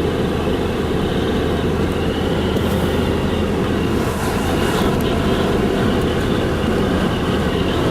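Car driving on a road: steady engine and tyre noise heard from inside the cabin, with a few brief hissing swishes.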